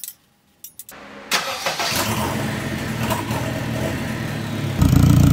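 Honda K24A2 2.4-litre inline-four, swapped into a Subaru BRZ, starting up and settling into a steady run. About half a second before the end it suddenly gets louder.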